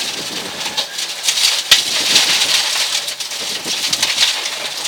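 Rally car at speed on a bumpy gravel forest stage, heard from inside: a steady hiss and patter of gravel and stones striking the underside, with the engine low beneath it. One sharp knock from the car about two seconds in.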